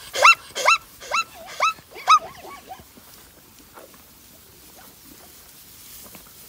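Zebra giving a run of high, yelping barks, about two a second, trailing off into fainter calls after about two seconds.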